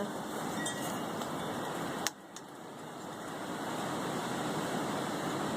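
Steady background noise, like distant traffic, with one sharp click about two seconds in.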